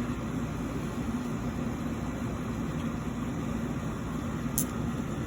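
Steady background hum and hiss, with one brief click about four and a half seconds in.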